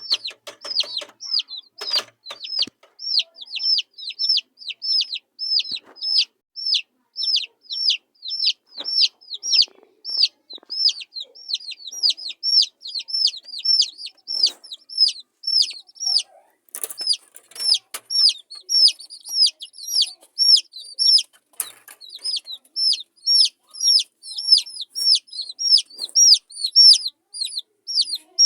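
Baby chicks peeping: a steady run of short, high, falling peeps, about three a second, with a few soft knocks now and then.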